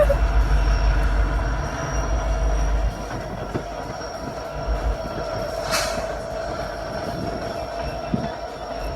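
Train rolling past with a steady high-pitched squeal from its wheels over a low rumble; the rumble drops off about three seconds in. A brief hiss comes a little past the middle.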